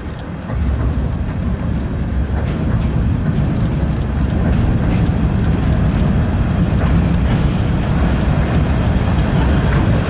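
Train running: a steady low rumble of wheels and motor on the track that grows louder about half a second in.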